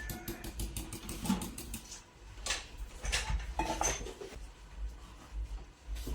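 Kitchen clatter: a quick run of light clicks and taps for about two seconds, then a few separate sharper knocks of utensils and dishes.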